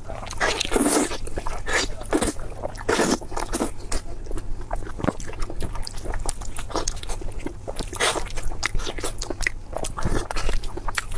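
Close-miked chewing and biting of spicy pork belly: an irregular run of mouth clicks, smacks and soft crunches.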